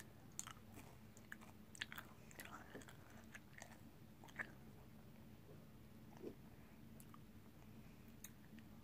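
Faint chewing of a sour Skittles sweet with the mouth closed: soft, irregular little wet clicks, more of them in the first half.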